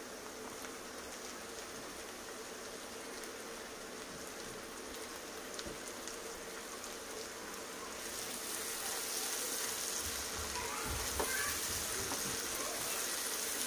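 Chopped vegetables sizzling in hot oil in a nonstick frying pan, a steady frying hiss. It grows louder about two-thirds of the way through, as a silicone spatula stirs the pan with a few soft knocks.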